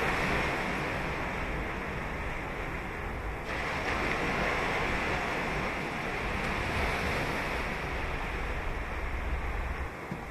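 Ocean surf breaking and washing onto a sandy beach: a continuous rushing wash with a low rumble, swelling slightly about a third of the way in.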